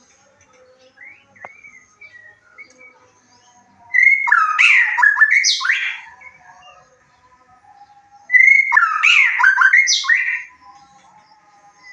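White-rumped shama singing two loud phrases of about two seconds each, about four seconds apart. Each phrase is a rapid run of rich whistles sweeping up and down. Fainter twittering of other birds carries on between and under them.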